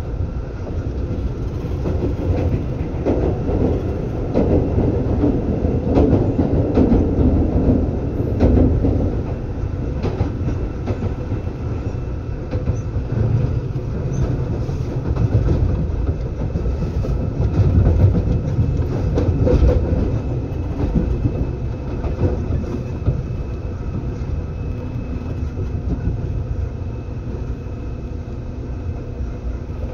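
Seibu 2000 series electric train (set 2007F) running, heard from inside the car: a continuous rumble of wheels on rail with a steady hum, swelling louder twice along the way.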